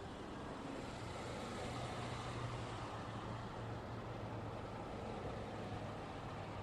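Road traffic: a steady rush of passing vehicles with a low engine hum, swelling a little as a vehicle passes a couple of seconds in and then easing.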